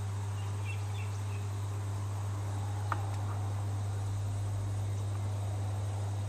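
A steady low hum, with a few faint high chirps about a second in and a single sharp click near the middle.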